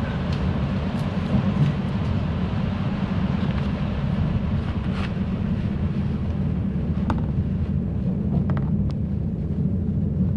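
Electric passenger train running, a steady low rumble heard from inside the carriage, with a few brief sharp snaps scattered through it.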